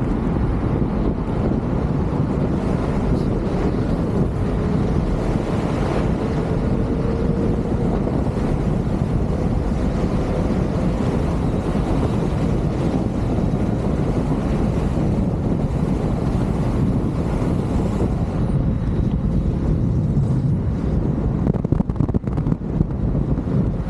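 Wind buffeting the camera microphone while riding an electric unicycle at speed, with a faint whine that rises slightly in pitch partway through. The buffeting turns gustier and choppier near the end.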